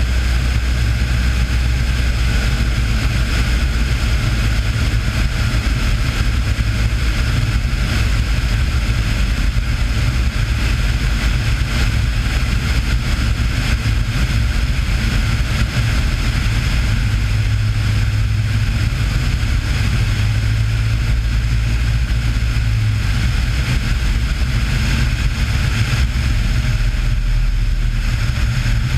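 Cessna 182's single piston engine and propeller running steadily, a constant drone with no change in pitch.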